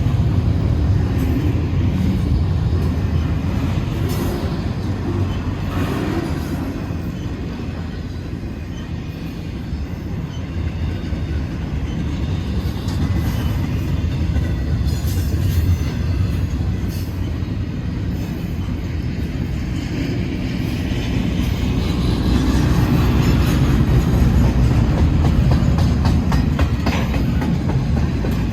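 Freight train of intermodal double-stack cars rolling past: a steady low rumble of wheels on rail, with clickety-clack over the rail joints. Louder clatter and higher wheel noise build up about three quarters of the way through.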